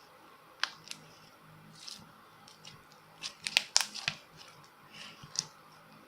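Scattered small clicks and crinkling handling sounds, with a quick cluster of sharper clicks about three and a half seconds in.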